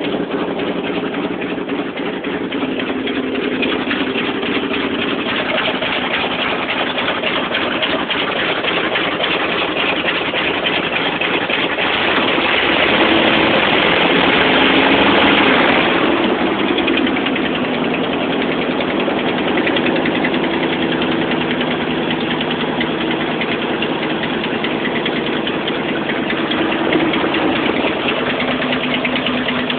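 1985 Chevy pickup's 350 small-block V8 idling while it warms up after a cold start. About twelve seconds in the engine speed rises and gets louder, then drops back to idle around sixteen seconds.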